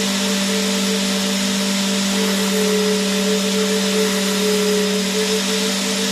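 Vacuum cleaner motor running steadily: a constant hum with a slightly wavering whine above it, over an even rushing hiss of air.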